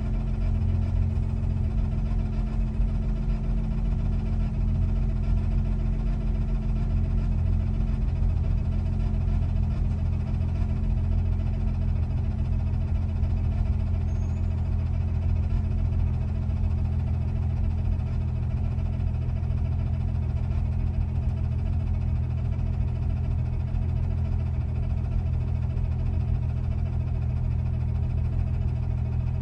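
1997 Jeep Wrangler TJ idling steadily while warming up, a constant low drone with a steady hum, making a noise the owner calls weird.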